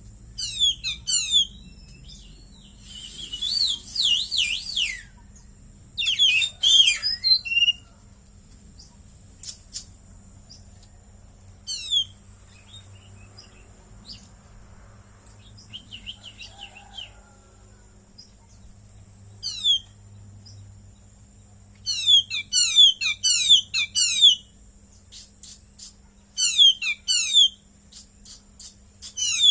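Oriental magpie-robin (kacer) singing in bursts of rapid, high, sweeping chirps with pauses of a few seconds between phrases. Its song is filled with mimicked cililin calls. A faint steady high whine and a low hum run underneath.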